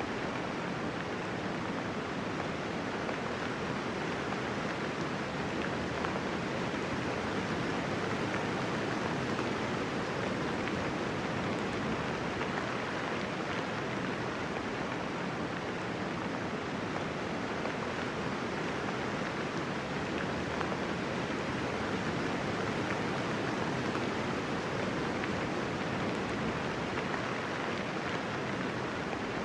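Steady, gentle rainfall with no thunder: an even hiss of many raindrops.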